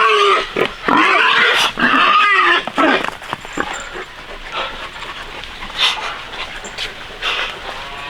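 Newborn piglets squealing: a run of loud, high calls that bend up and down in pitch for about three seconds, then quieter scattered grunts and rustling.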